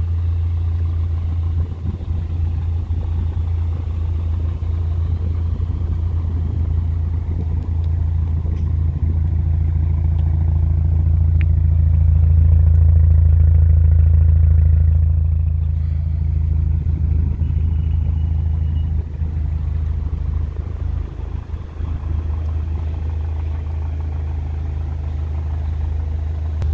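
2013 Subaru BRZ's 2.0-litre flat-four boxer engine idling steadily, a low even hum from the exhaust that grows louder for a few seconds around the middle, close to the tailpipe.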